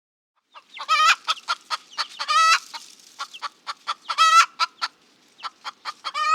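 A chicken clucking: a run of short, quick clucks with a few longer, drawn-out cackling calls among them, starting about half a second in.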